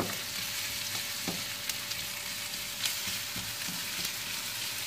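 Chopped garlic, ginger and shallots sizzling steadily in hot oil in a wok, being fried until fragrant. A spatula stirs them, scraping and tapping against the pan a few times.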